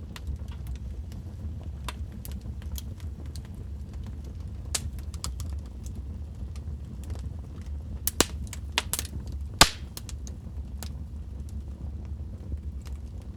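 Wood fire crackling in a fireplace: scattered sharp snaps and pops over a steady low rumble. A handful of louder pops come close together about two-thirds of the way through.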